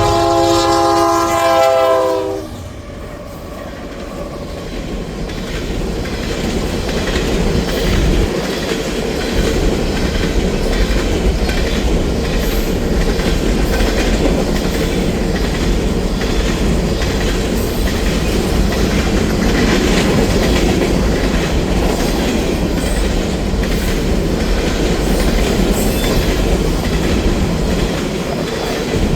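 Union Pacific freight train's locomotive air horn sounding a multi-note chord that ends about two seconds in, then the train rolling past with a steady heavy rumble and the clickety-clack of wheels over the rail joints.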